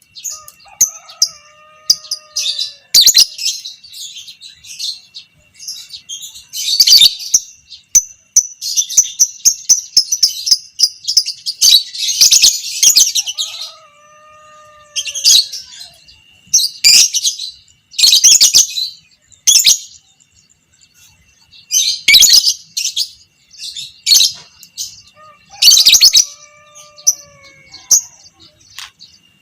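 Fighter lovebird chattering ('ngekek'): rapid, shrill bursts of calls, with one long unbroken chatter of about five seconds near the middle. A few faint, lower drawn-out whistles come in between the bursts.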